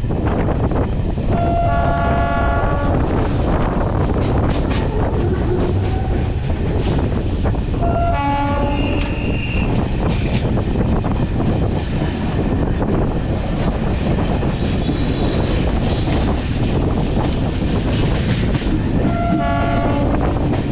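A train passing close by, a loud steady rumble with wheels clattering over the rails. Its horn sounds three times, each blast lasting about a second and a half: about a second in, about eight seconds in, and near the end.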